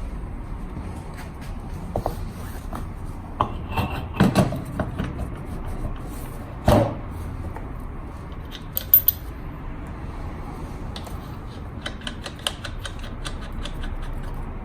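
Hand tools and metal scooter parts being handled during a repair: scattered metallic clicks and knocks over a steady low hum, with louder clunks about four and seven seconds in and a sharp click about nine seconds in.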